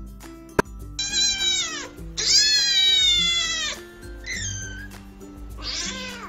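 Kittens meowing: four high calls that fall in pitch, the second long and the loudest, over background music. A sharp click comes just before the first meow.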